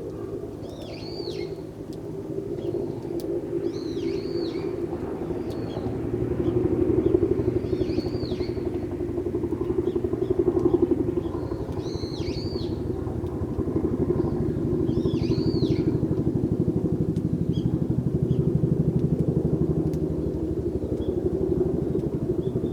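Sparrows chirping, single arched chirps every one to four seconds, over a loud steady low rumble of a running engine.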